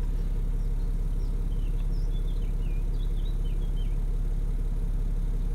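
A BMW E70's engine idling steadily, heard from inside the cabin, with a few faint high chirps in the middle.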